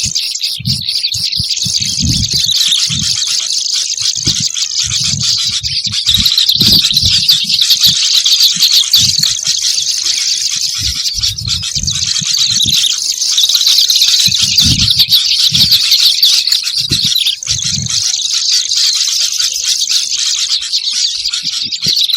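Kerabasi bird-lure recording: busy, continuous high-pitched chirping and chattering of several small songbirds, with irregular low thumps underneath.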